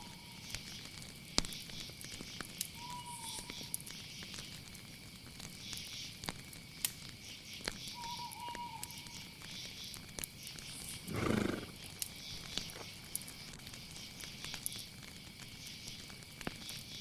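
Night nature ambience: insects chirring steadily at a high pitch, with two short, slightly falling whistled calls and scattered faint clicks. One brief, louder animal call stands out about eleven seconds in.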